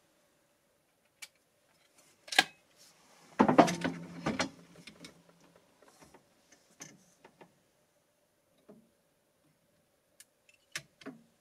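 Metallic clicks and a short clatter from handling the rifle while getting ready to shoot. The clatter is the loudest sound, about three and a half seconds in, and fainter single clicks follow.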